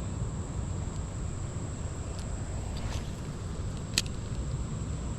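Steady low outdoor rumble with a couple of faint ticks and one sharp click about four seconds in.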